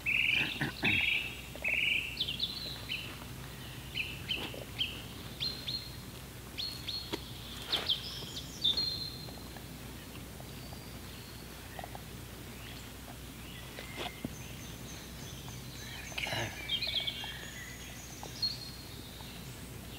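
Woodland birds singing: a run of short, quick chirping notes, busiest in the first several seconds and again a little before the end, over a faint steady background hiss, with a few soft knocks from handling.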